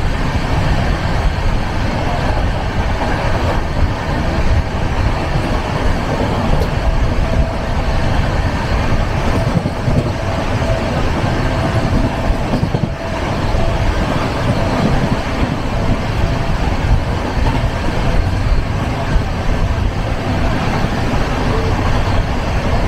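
Passenger train running at speed, heard from inside the coach: a steady rumble of the wheels on the rails. A faint thin whine rides over it for several seconds midway.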